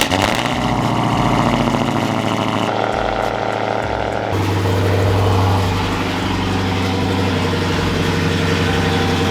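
Muscle car engine idling just after a cold start, running loud and steady. The idle note changes about four seconds in.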